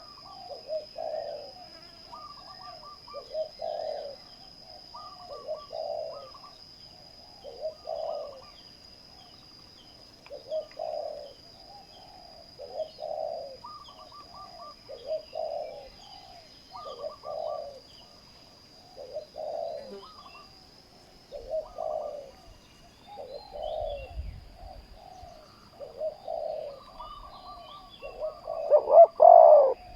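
Spotted doves cooing: a run of short, repeated coo phrases about every two seconds, with one louder phrase near the end.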